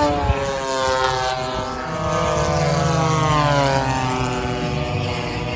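Propeller engines of large radio-controlled warbird models making fast low fly-bys, each engine's pitch dropping as the plane passes. One pass falls away early on, a second sweeps by in the middle, and another is approaching near the end.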